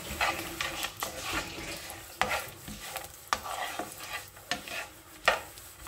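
Sliced coconut and almonds sizzling in desi ghee in a non-stick frying pan, being lightly golden-fried. They are stirred with a spatula, which scrapes and taps the pan about six times.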